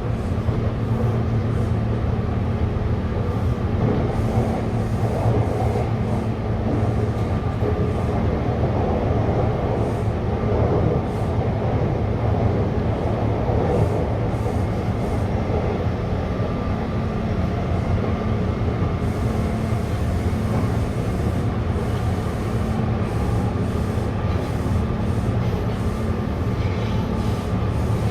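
Taipei Metro train running at steady speed: an even low rumble with a constant hum over it.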